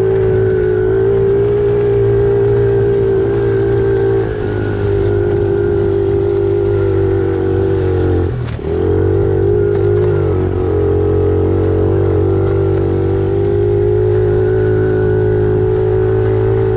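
Pit bike's small engine running steadily under throttle while riding, easing off briefly about four seconds in and dipping sharply about eight and a half seconds in before pulling again.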